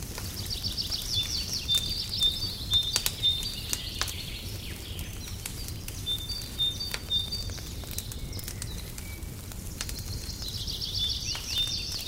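Wood fire crackling, with scattered sharp pops over a low steady rumble. Small birds sing quick high trills for the first few seconds and again near the end, with a few short repeated chirps in between.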